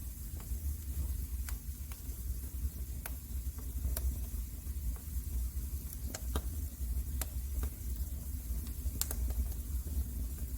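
Wood fire crackling in a fireplace: irregular sharp pops and snaps, a dozen or so scattered through, over a low steady rumble.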